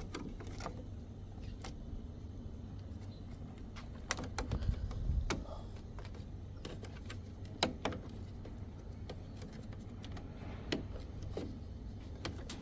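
Scattered sharp plastic clicks and taps as the locking clips holding a washing machine's control board in its plastic front panel are pried and released, with a short stretch of low handling noise around the middle.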